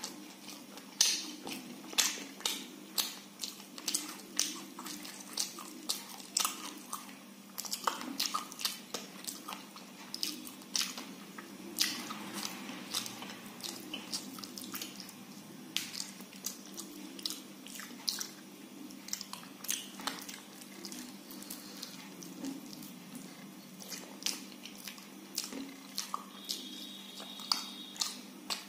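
Close-up eating sounds: wet chewing with sharp mouth clicks coming irregularly, about one or two a second, as a man eats soft khichdi with his fingers.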